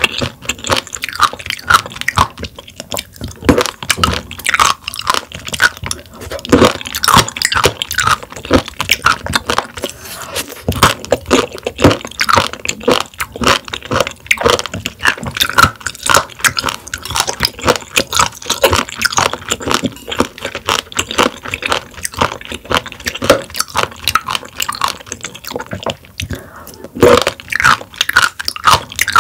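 Raw warty sea squirt being chewed close to the microphone: a dense, unbroken run of quick crunchy, wet clicks and bites.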